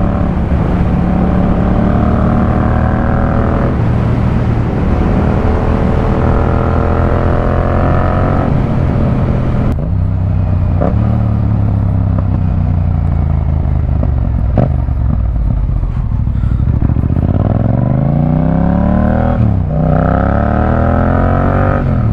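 Yamaha MT-07's parallel-twin engine running through an Akrapovic full carbon exhaust with the dB killer fitted, under hard acceleration. The note rises through two gears with a shift about four seconds in, eases off and holds lower from about ten seconds, then climbs strongly again with a quick shift near the end.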